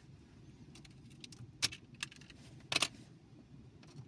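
Small clicks and rattles of a charging cable being handled and plugged into a handheld OBD2 scanner: a sharp click about a second and a half in, another just after, and a quick cluster of clicks near the three-quarter mark, over a low steady hum.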